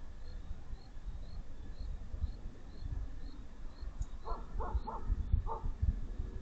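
A dog barking four times in quick succession in the distance, about four seconds in, over a steady low rumble on the microphone. A faint high chirp repeats about twice a second throughout.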